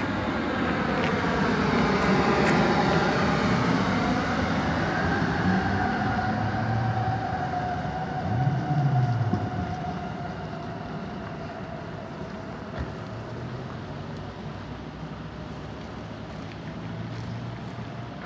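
Train passing at speed, with a stack of whining tones that glide down in pitch over the first few seconds and then hold steady over a low rumble. The sound is loudest early on and fades gradually as the train moves away.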